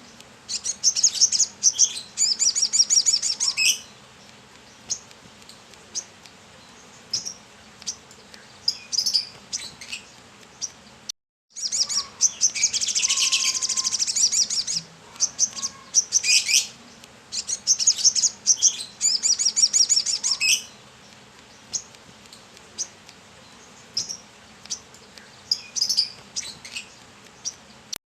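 A kolibri kelapa (brown-throated sunbird) singing in bouts of rapid, high-pitched chirping trills, each a second or few long, with short pauses between them.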